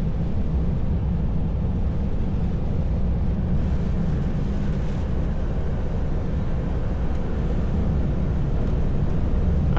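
Heavy truck's diesel engine running steadily at cruising speed with tyre and road noise, heard from the cab: a constant low drone with an even hiss above it.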